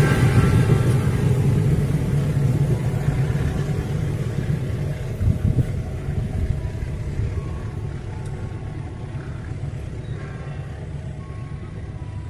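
Passenger train coaches rolling away along the rails, their low rumble fading steadily as the train recedes into the distance.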